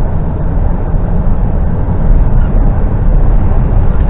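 Articulated lorry driving along the road, its engine and road noise heard from inside the cab as a steady, mostly low rumble.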